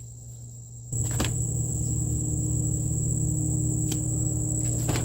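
A steady low mechanical hum switches on abruptly about a second in and runs evenly, over a continuous high, thin insect trill, with a few faint clicks.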